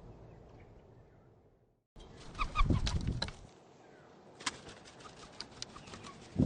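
Birds at a feeder: after a faint background fades out, a loud flurry of wing flaps and knocks starts about two seconds in, with a few short chirps, then scattered taps and a sharp knock near the end.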